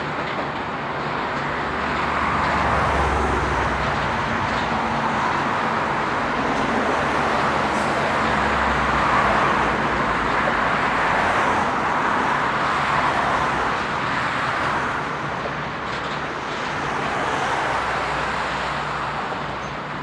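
A passing train's steady rushing rolling noise, swelling and easing over several seconds, with a low hum underneath.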